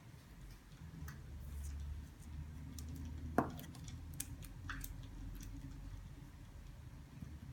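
Burning firewood crackling, with irregular small pops and snaps over a low steady rumble, and one sharper snap about halfway through.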